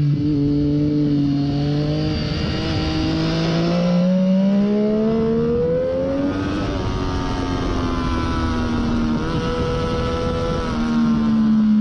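Onboard sound of a 2014 Triumph Daytona 675's inline three-cylinder engine through a Hindle slip-on muffler, with wind rush. Engine pitch climbs steadily through the gear for about six seconds, then drops at a gear change about halfway through and holds fairly steady.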